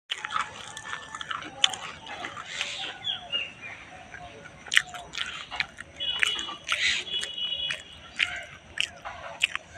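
Small birds chirping: a busy, irregular mix of short sharp chips and calls, with a couple of brief whistled notes about six and seven seconds in.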